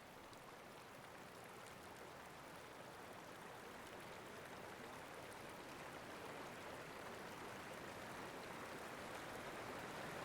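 Faint, steady rushing noise that grows slowly louder, with no clear tones or beats.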